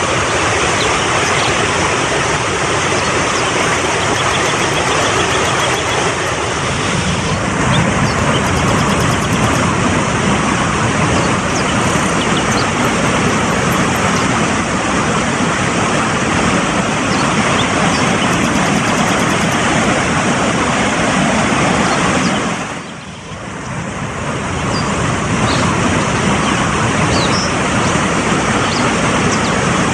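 Fast-flowing mountain stream rushing steadily, with a few faint short high chirps over it. The rush dips briefly about three-quarters of the way through and then comes back up.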